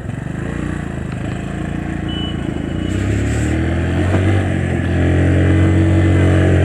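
Motorcycle engine pulling away, getting louder over the first few seconds and then running steadily.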